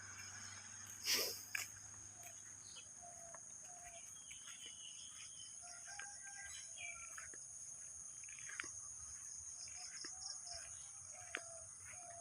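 Faint bird calls, short notes scattered throughout, over a steady high-pitched drone of insects, with one brief louder sound about a second in.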